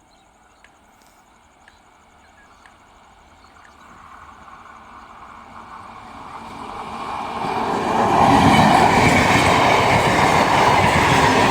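A train approaching, its rumble growing from faint to loud over several seconds, then running past close by with steady loud wheel and rail noise.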